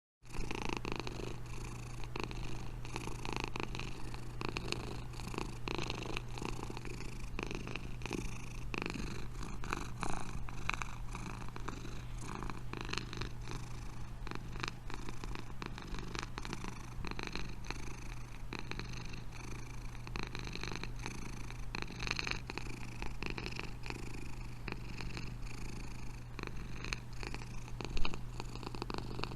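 A steady purring, as of a cat purring close to the microphone, with a constant low hum beneath it. It starts suddenly right at the beginning, and a single sharp click stands out near the end.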